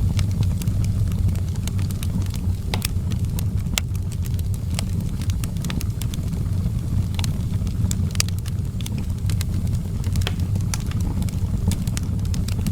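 Wood fire burning in an outdoor fireplace, with frequent sharp crackles and pops at irregular intervals over a steady low rumble.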